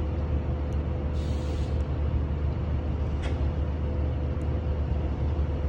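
Steady low rumble of idling vehicle engines in traffic, with a faint steady hum. A short hiss comes about a second in and another near the three-second mark.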